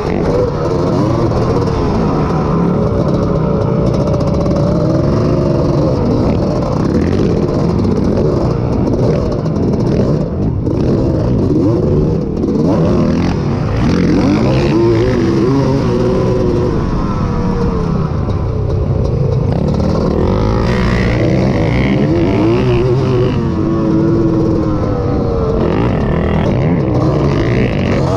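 Honda ATC250R three-wheeler's two-stroke single-cylinder engine racing hard and loud, its pitch rising and falling over and over as it is throttled and shifted around the motocross track.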